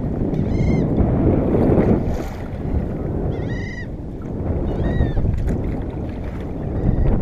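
Water washing around a kayak, with wind buffeting the microphone, swelling and easing in level. Four short, high, arching calls sound over it, spaced a second or more apart.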